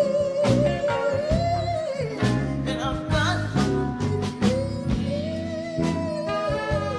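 Live band music with a woman's voice singing long, held notes with vibrato, over frequent sharp percussion hits.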